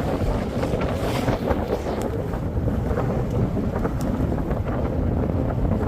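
Wind buffeting the microphone aboard a sailing yacht: a steady, loud rushing rumble, with a couple of faint clicks.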